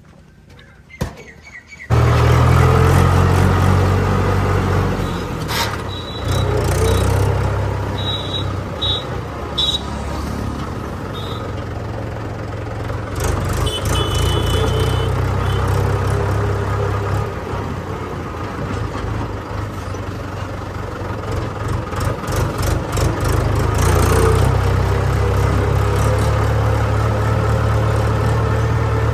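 Heavy diesel machine engine running under load, starting suddenly about two seconds in and rising and falling a little in speed. A few short high chirps come over it between about eight and fifteen seconds in.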